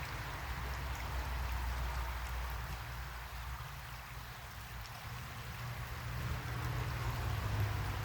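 Creek water flowing steadily, an even rushing hiss, over a low uneven rumble.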